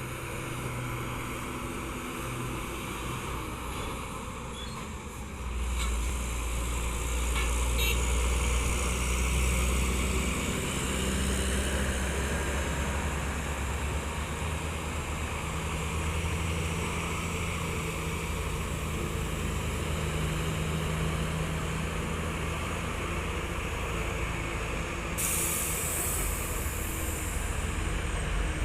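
Heavy diesel truck engines running steadily on a mountain road, the drone growing louder about six seconds in. Near the end comes a burst of air hiss lasting about two seconds, typical of a truck's air brakes.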